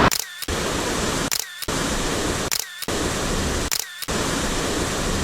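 Four camera shutter clicks about a second apart, each briefly cutting out a steady rush of surf noise.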